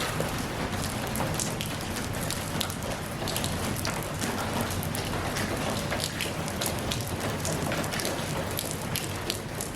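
Steady rainfall, with many separate drops pattering sharply on a surface over the even wash of the rain.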